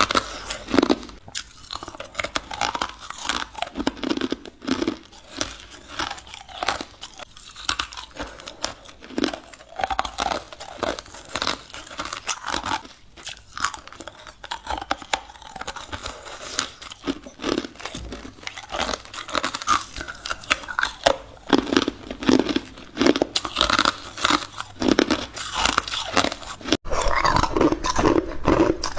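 Ice being bitten and chewed close to the microphone: a dense run of sharp, irregular crunches, one after another, with a momentary dropout near the end.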